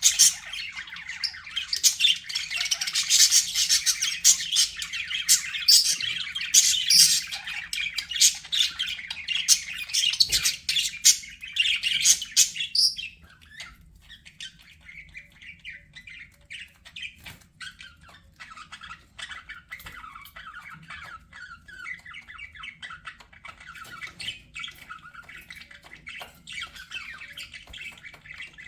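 Budgerigars chirping and squawking, loud and dense for about the first half, then dropping to a softer chatter about halfway through.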